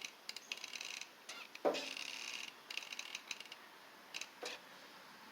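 Small sealed ball bearings being handled and turned by hand while they are repacked with grease: several short, scratchy, rattling mechanical bursts, with a knock about one and a half seconds in and a couple of clicks later.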